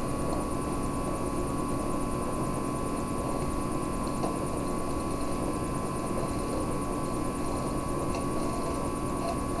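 Steady background hum and hiss with a constant tone, like a fan or recorder noise, with a few faint clicks around the middle and near the end.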